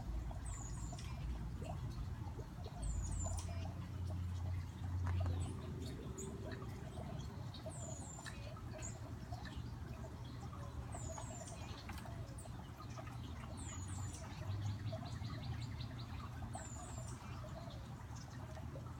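Backyard songbirds calling: a high, short double note repeats six times, about every three seconds, and a quick trill comes a little past the middle. Underneath is the steady wash of a garden fountain.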